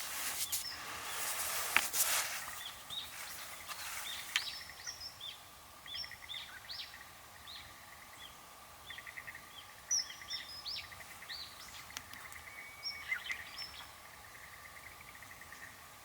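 Wild birds calling: many short, high chirps and several rapid trills. A rushing hiss is heard in the first few seconds, and a faint steady tone runs underneath.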